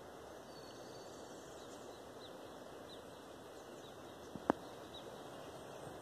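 Small birds chirping: a run of short, high, quickly falling notes repeated about every half-second, over a steady low background hiss. A single sharp click stands out about four and a half seconds in.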